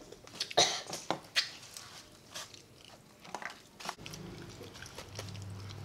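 Close-up mouth sounds of people eating chicken wings: chewing with sharp wet clicks and lip smacks, then a low steady hum from about four seconds in.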